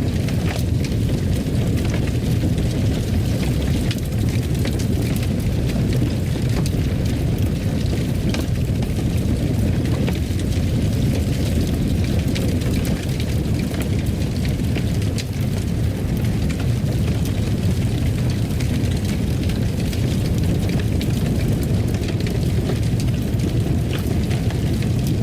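Wood fire crackling in a fireplace: a steady low rumble of burning with many small, sharp pops and crackles scattered throughout.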